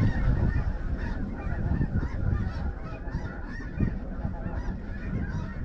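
A flock of snow geese calling over one another: many overlapping short, high yelps at once.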